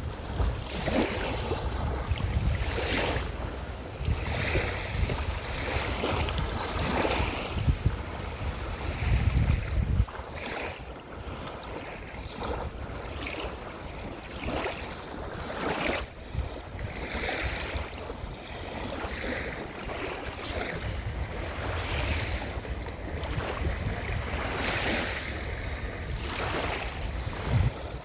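Ocean waves washing onto a beach, the surf swelling and fading every few seconds, with wind rumbling on the microphone, heaviest in the first ten seconds.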